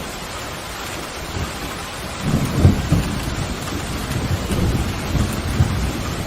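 Steady heavy rain with a rumble of thunder building about two seconds in and continuing.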